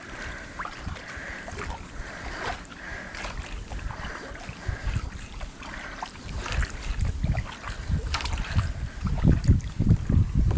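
Wind buffeting the microphone in uneven gusts out on the water, stronger near the end, with scattered light clicks.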